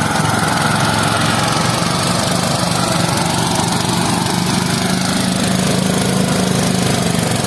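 Engine of rice-harvesting machinery running steadily, its pitch wavering only slightly.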